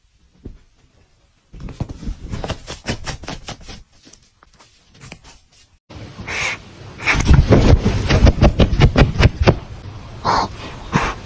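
Kitten meowing in a few short calls over loud rustling and crackling noise. The noise changes abruptly about six seconds in.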